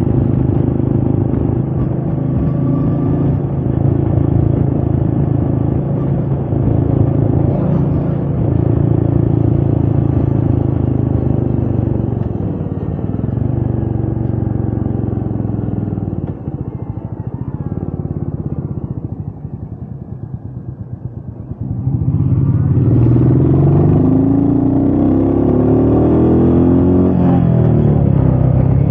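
Royal Enfield Meteor 350's single-cylinder engine running on the road, with wind noise. About two-thirds of the way in the throttle closes and the engine note falls and quietens, then the engine pulls hard again, its pitch rising.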